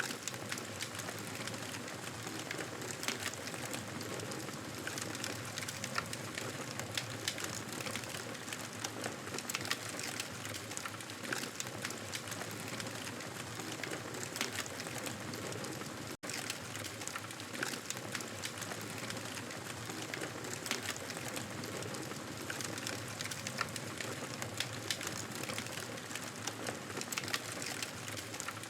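Wood fire crackling steadily, with many small snaps and pops over a continuous hiss, broken by a split-second gap about halfway through.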